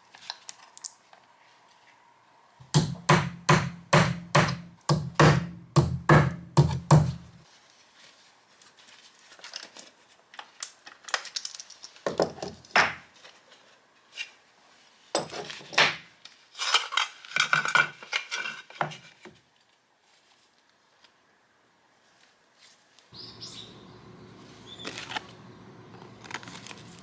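Hand work on small metal items: a quick run of sharp strokes, then scattered clicks and clinks. A steady low hum starts near the end.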